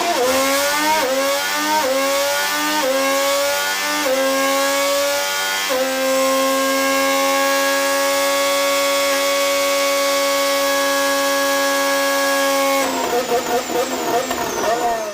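Honda's 2026 Formula 1 power unit, a 1.6-litre turbocharged V6, revving up through a quick run of about five upshifts, its note climbing and dropping back at each shift. It then holds one steady high note for about seven seconds. Near the end the note wavers unevenly and drops off.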